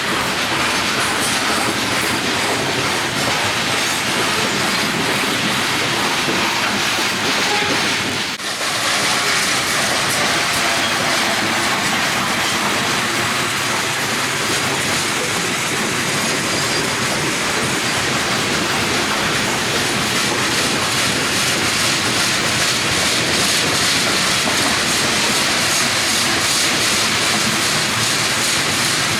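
Freight train cars rolling past on the rails in a loud, steady stream of wheel-and-rail noise, with the sound dipping briefly about eight seconds in.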